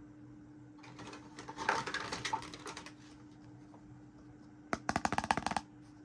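Small plastic toy pieces being handled, clicking and rustling for a couple of seconds. Near the end comes a quick run of about a dozen sharp clicks, lasting under a second.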